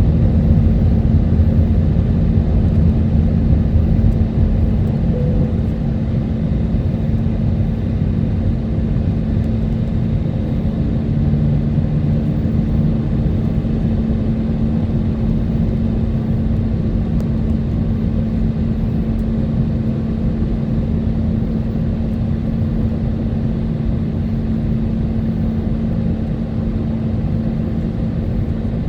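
Steady cabin noise of an Airbus A320neo on approach, heard from inside the cabin: engine and airflow drone with a constant low hum. It eases slightly about four seconds in.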